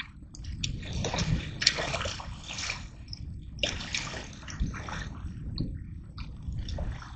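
Water splashing and sloshing in irregular bursts as a big blue catfish is let go back into the lake from the bank.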